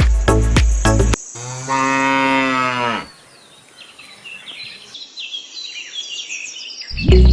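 Background music breaks off about a second in, and a cow moos once, a single pitched call lasting about a second and a half. Short bird chirps follow, and the music comes back near the end.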